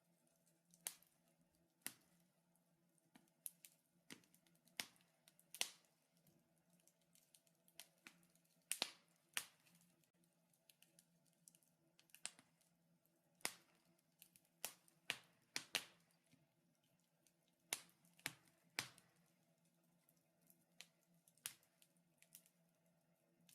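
Wood fire in a fireplace crackling: irregular sharp snaps and pops, some much louder than others, over a faint steady hum.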